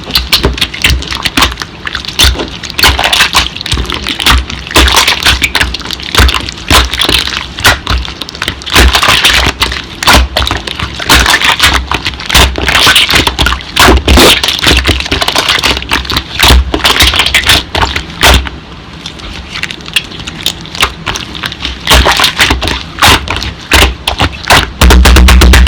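Slime being squeezed and worked by hand: a dense, irregular run of sharp clicks and crackles, with a louder low thump near the end.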